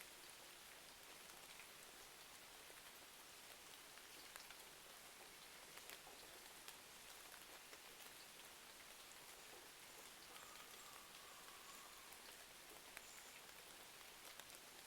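Faint, steady rain hiss with scattered small crackles and ticks from a wood fire.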